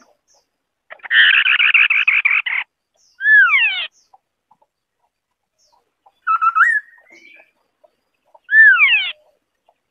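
White-browed Scimitar-Babbler singing: a rapid run of buzzy notes for about a second and a half, then a clear whistle that falls steeply in pitch. A short phrase and a second falling whistle follow in the back half.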